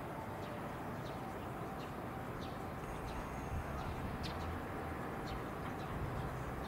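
A JNR 113 series electric train pulling away and rolling slowly, heard at a distance as a low rumble that swells a little about halfway through. Short high chirps of a small bird repeat about once or twice a second over it.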